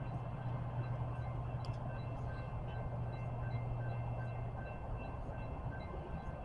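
Train running by with a steady low hum that fades about three-quarters of the way through, over a constant rushing noise, with faint, evenly spaced high pings.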